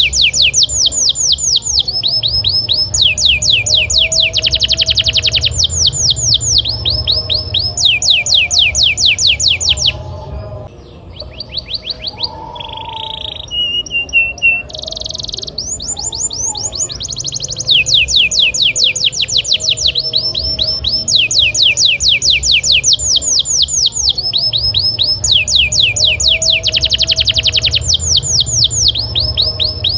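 Domestic canary singing vigorously in fast rolls: runs of high, rapidly repeated down-sweeping notes that switch to a new phrase every second or two. About ten seconds in the runs break off for a few seconds of softer, varied chirps before they resume. A steady low rumble sits underneath.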